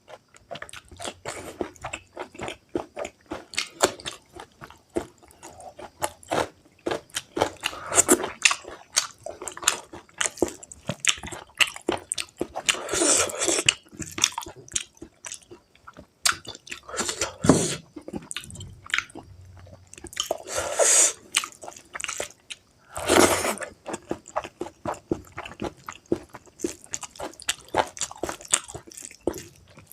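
Close-miked eating of spicy pork curry with rice: steady wet chewing, smacking and biting in a quick irregular run, with a few louder, longer mouth noises in the middle.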